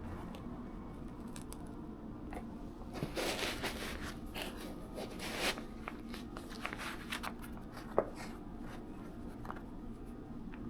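Handling noises: rustling and crinkling with scattered light clicks and knocks, the loudest rustling a few seconds in and a sharp click near the end, over a low steady hum.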